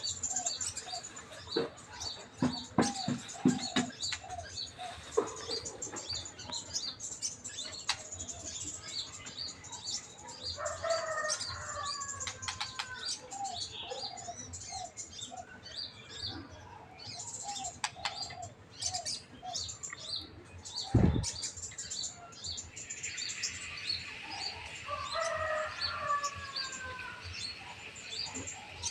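Chorus of wild birds, several species calling at once: quick high chirps repeated over and over, with lower whistled phrases coming and going. A single sudden thump about three-quarters of the way through.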